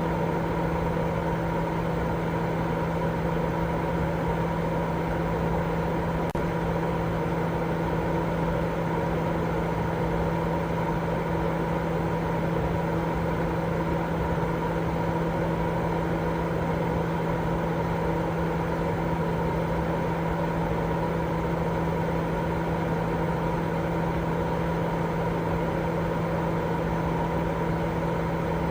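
Continuous white noise for baby sleep, steady and unchanging, with a low steady hum running under the hiss.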